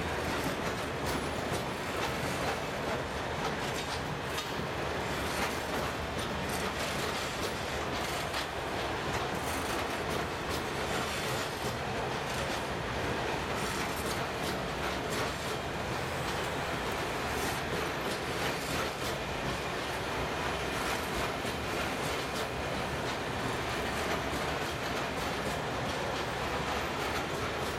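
Freight wagons loaded with timber rolling past on the rails: a steady rumble and clatter of wheels on track, with frequent quick clicks throughout.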